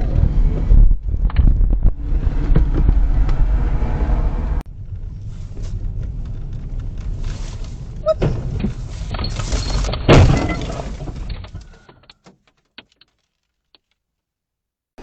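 Car interior road and engine rumble, then after a sudden cut a vehicle collision: a few sharp knocks, then a loud crashing impact about two thirds of the way through, with breaking, shattering noise that dies away to silence.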